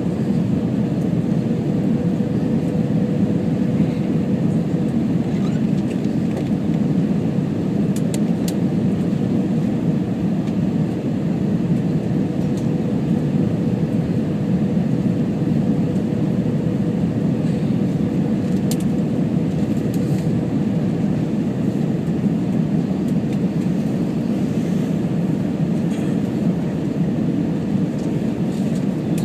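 Steady cabin noise inside an Airbus A321: a low, even rumble of engines and airflow with a faint steady hum, and a few faint clicks.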